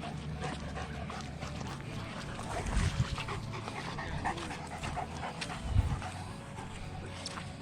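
A dog panting, with a couple of dull low bumps about three and six seconds in.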